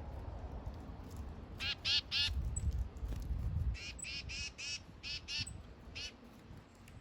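A bird giving short, harsh calls in quick runs: three about two seconds in, then a run of four, two more, and a single call near the end.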